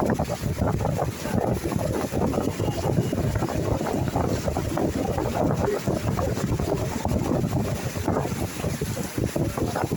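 Wind buffeting the microphone, a continuous gusting rumble with no pitched tone.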